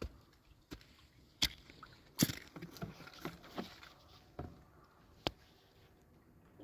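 A few sharp knocks and clicks among lighter irregular handling noises, the loudest about two seconds in.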